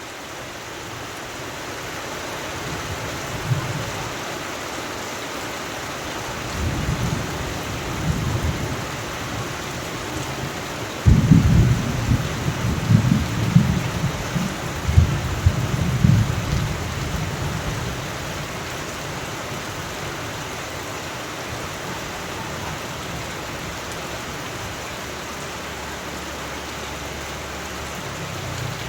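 Steady rain with a roll of thunder. A low rumble builds from a few seconds in, breaks suddenly loud about eleven seconds in, then rumbles on for several seconds before dying back to the rain.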